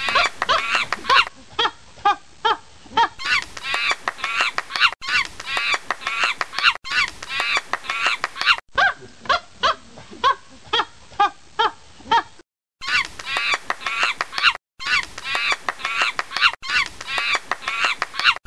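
Monkeys chattering in rapid, repeated calls, several a second, with two short breaks in the second half.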